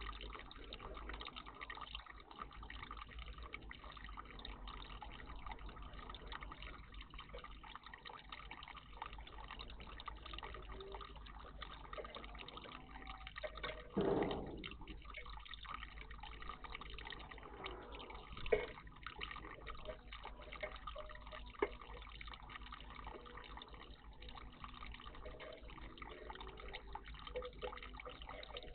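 Water trickling and dripping steadily in a garden bird bath. A few brief louder splashes come about halfway through and twice more a few seconds later.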